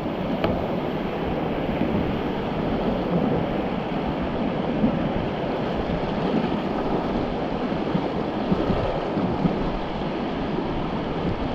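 Whitewater rushing steadily around a raft running a river rapid.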